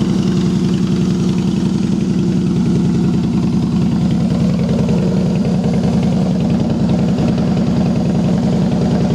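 Harley-Davidson 103 cubic-inch V-twin motorcycle engine idling steadily through Vance & Hines Long Shots exhaust, an even run of exhaust pulses.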